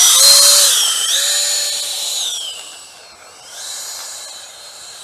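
Twin 64 mm electric ducted fans of a Freewing A-10 RC jet whining at high throttle on a takeoff attempt. The whine dips and rises in pitch, fades about two and a half seconds in, then swells again briefly near the end.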